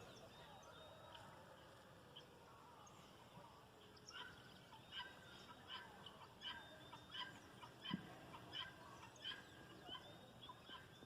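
Domestic fowl calling faintly: a long run of short, sharp calls, repeating about twice a second, begins about four seconds in, with faint birdsong before it.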